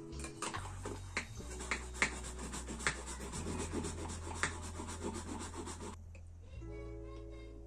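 Rubbing and scratching with scattered sharp clicks, stopping about six seconds in, over soft background music with a steady bass line.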